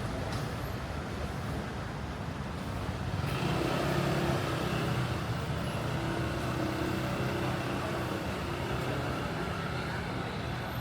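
Street traffic with a motor vehicle's engine running close by under general city street noise; it grows louder about three seconds in and then holds steady.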